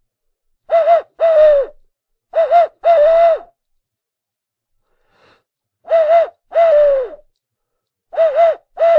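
An owl hooting in two-note phrases, a short hoot then a longer, hoarse one, repeated four times with pauses between.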